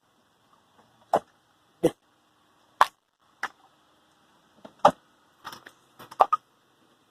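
A series of about nine short, sharp pops and clicks at irregular intervals, a few bunched together near the end.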